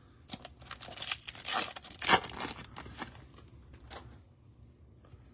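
A trading card pack wrapper being torn open by hand and crinkled. There is a run of tearing and rustling that starts about a third of a second in, is loudest just after two seconds, and dies away by about four seconds.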